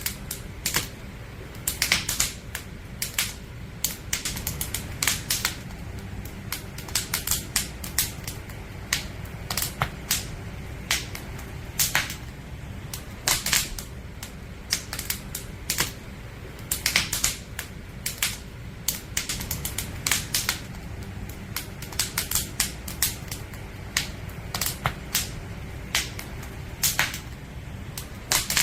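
Wood campfire crackling: burning firewood snapping and popping in irregular sharp clicks, several a second, over a steady low rumble of the fire.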